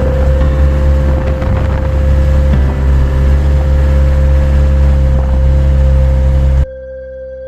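Isuzu Elf truck's diesel engine running loud and steady under load. About six and a half seconds in it cuts off abruptly, leaving a quieter held tone.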